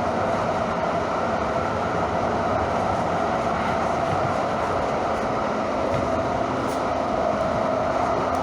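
Steady, even running noise of a train in motion, with a low hum underneath and no distinct clicks.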